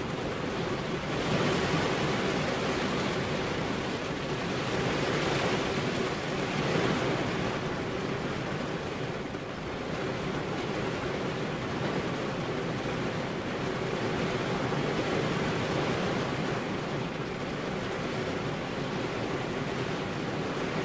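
Heavy rain falling in a steady hiss that swells and eases every few seconds.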